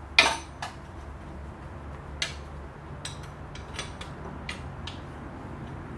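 A sharp metal clank, then irregular quick clicks of a wrench being worked on the last steering-pump bolt, over a low steady hum.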